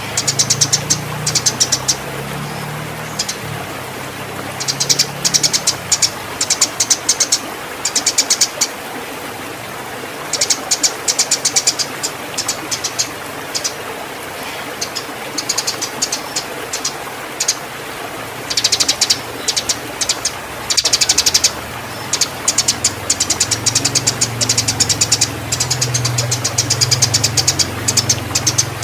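Eurasian tree sparrows chirping in rapid, excited bouts of a second or three each, the agitated chatter of birds in breeding condition squaring up to fight. A low hum runs underneath at the start and again in the second half.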